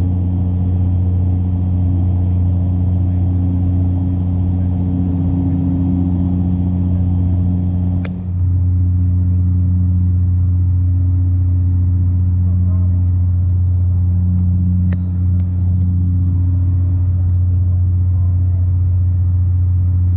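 Steady low propeller drone of a Dash 8 Q400 turboprop airliner's six-bladed propellers heard inside the cabin, with a brief click twice.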